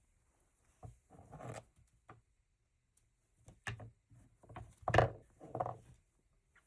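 Rummaging through embroidery threads and supplies on a desk: scattered rubs, rustles and light knocks, the loudest cluster about five seconds in.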